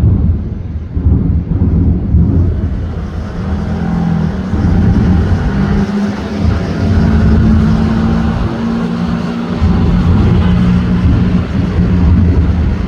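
Fireworks bursting in rapid succession, a continuous dense low booming. A steady low hum sounds through the middle stretch.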